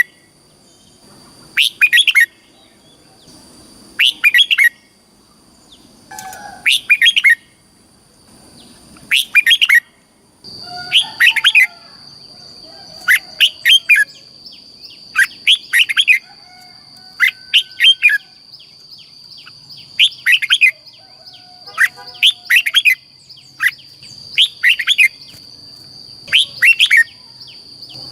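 Red-whiskered bulbul singing: short, bright phrases of quick rising and falling notes, repeated about every two seconds. A faint steady high-pitched tone runs underneath, stronger from about a third of the way in.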